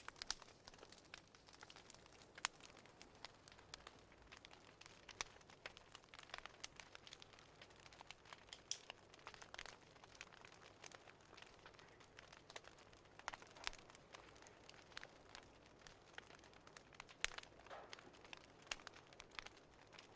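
Fireplace crackling quietly, with irregular sharp pops and snaps over a faint hiss.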